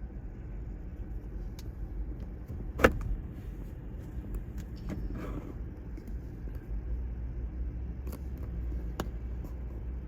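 Steady low rumble of surf and wind on the microphone, with a sharp click a little under three seconds in and a smaller one near the end.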